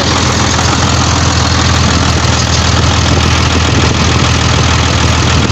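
Bedford truck engine idling steadily, loud and close, with a fast even ticking running through it.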